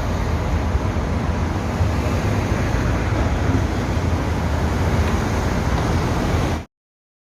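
Steady low rumbling outdoor noise, like traffic or wind on the microphone, that cuts off abruptly about six and a half seconds in.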